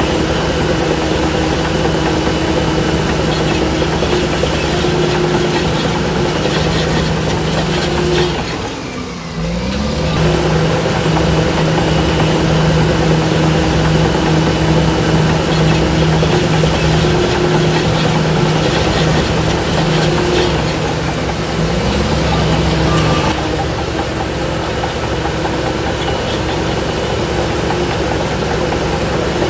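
Shantui DH17C3 bulldozer's diesel engine running hard and steadily. About eight seconds in the engine note falls away for a moment, then climbs back up. Near the 23-second mark the pitch shifts again and it settles a little quieter.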